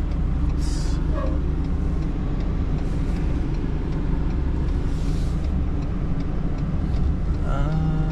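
A vehicle engine idling with a steady low rumble, with a few short hisses of air now and then.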